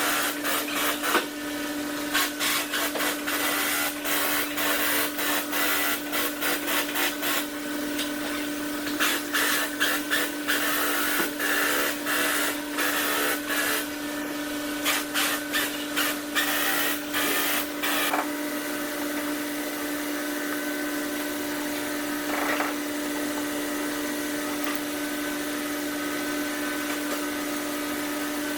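A steady mechanical hum runs throughout. Over it, tools clink and click sharply and irregularly on metal for the first eighteen seconds or so, then stop, leaving the hum alone.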